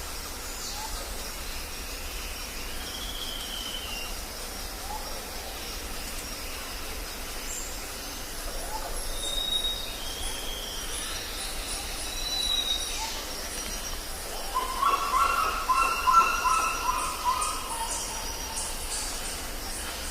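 Jungle ambience: a steady high insect chorus with scattered short bird whistles, and a louder run of animal calls about three quarters of the way through.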